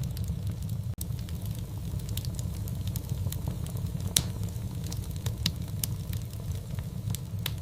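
Wood fire crackling: a steady low rumble of burning with scattered sharp crackles and pops, the loudest pop about four seconds in.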